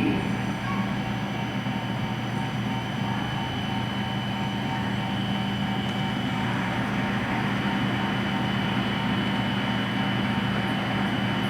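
Hokuriku Shinkansen train at the station platform, a steady electric hum made of several held tones, low and high, with no breaks.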